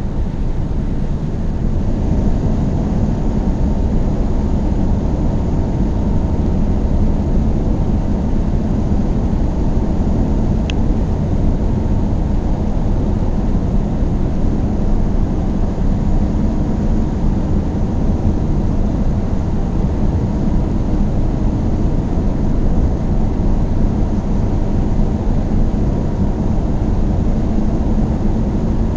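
Car driving at a steady speed: constant low rumble of engine and tyre-on-road noise with a faint steady hum.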